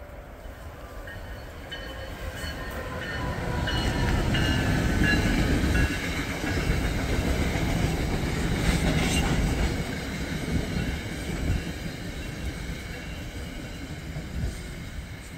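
Passenger train passing through the station on a far track: a rising rumble of wheels on rail, loudest for several seconds in the middle with a high whine around the time it arrives, then easing off as the coaches run by.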